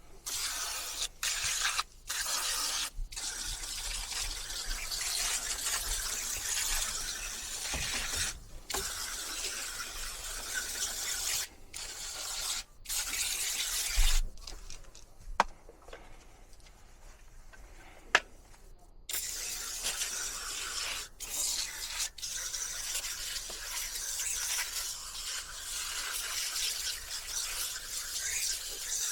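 Spray hissing onto an air-conditioner coil during cleaning, in long stretches broken by short pauses, with a quieter spell and a couple of sharp clicks about halfway through.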